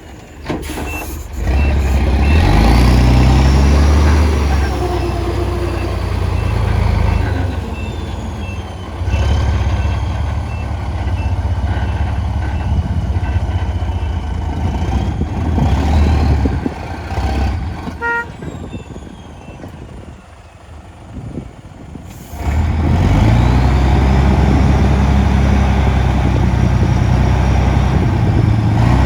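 Heavy diesel earthmoving machinery running, its engine revving up under load in three long surges with a quieter lull between the last two. A reverse alarm beeps steadily through the first half, and a horn gives a short toot about 18 seconds in.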